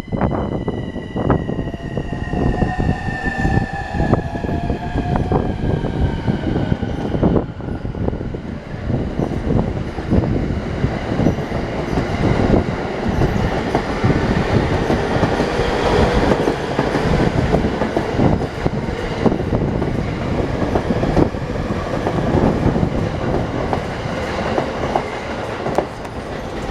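E231 series electric train pulling away, its unrefurbished VVVF inverter sounding a stack of tones that slide downward in pitch over the first seven seconds or so: the so-called 'falling inverter' sound. The train then runs on with rolling noise and repeated clacks of the wheels over rail joints as it gathers speed.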